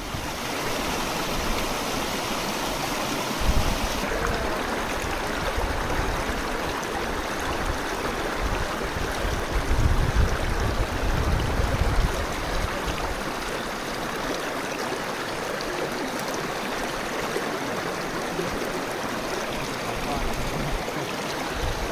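Water rushing steadily over rocks, a continuous even hiss of a flowing stream, with occasional low rumbles underneath.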